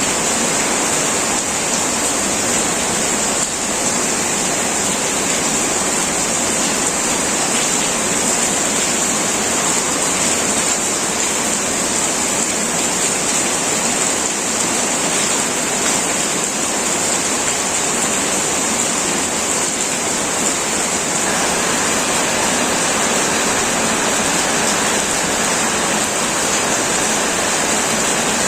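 Heavy rain pouring steadily on an old tin roof: a dense, even hiss with a strong high edge and no breaks.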